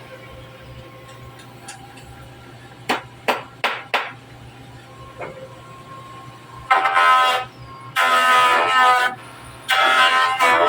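A horn sounding in repeated blasts, each about a second long, starting about two-thirds of the way in, over a low steady hum; a few sharp clicks come a little before the midpoint.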